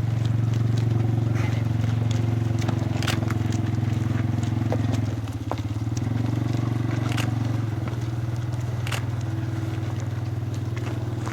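A machine running with a steady low drone, with scattered sharp clicks and crackles over it; the drone dips briefly about five seconds in.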